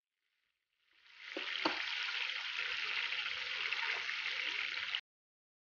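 Chicken wings sizzling in hot oil in a nonstick frying pan: a steady hiss that fades in about a second in and cuts off suddenly near the end, with a couple of sharp clicks early in the sizzle as a metal spoon turns the wings.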